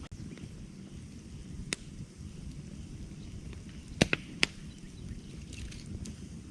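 Campfire burning with a steady low rumble and sharp wood pops: one snap about two seconds in, then a loud cluster of three snaps around four seconds in.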